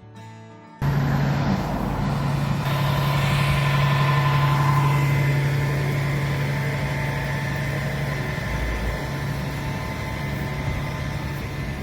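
Quiet music cuts off abruptly about a second in, giving way to a vehicle engine running steadily with a strong low hum.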